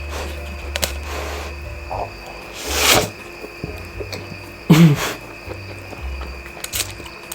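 Instant noodles being slurped and eaten: a long slurp swells and fades about three seconds in, followed just before five seconds by a short, louder sound with a low falling pitch.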